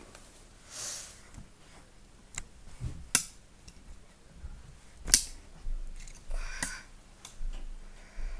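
Handling noises: a few sharp clicks and knocks, the loudest about five seconds in, with soft rustles between them.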